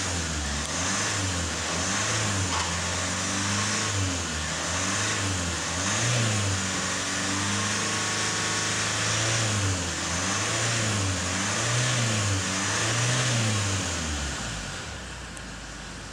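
2013 Hyundai Santa Fe's 2.2-litre turbo-diesel four-cylinder engine revved again and again, its pitch rising and falling with each blip, then shut off about fourteen seconds in.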